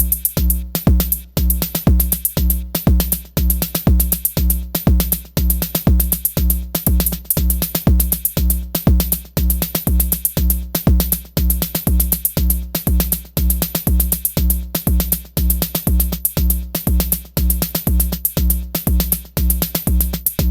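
Elektron Syntakt drum machine playing a steady electronic drum pattern: a deep kick about twice a second, fast hi-hat ticks between the kicks, and a sustained pitched drum tone underneath.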